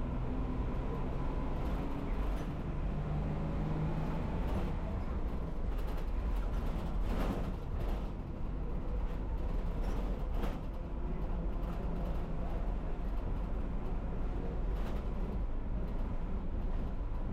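A city bus in motion, heard from on board: a steady low engine and road rumble, with a couple of brief knocks or rattles about seven and ten seconds in.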